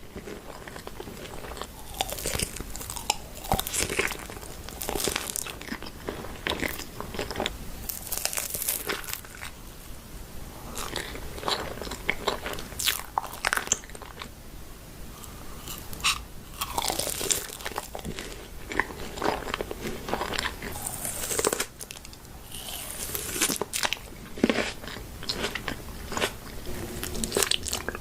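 Close-miked mukbang eating: a person biting into and chewing crunchy food, with many sharp, irregular crunches.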